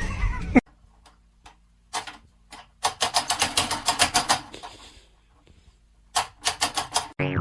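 Quick runs of light clicks or taps, about ten a second, with pauses between them.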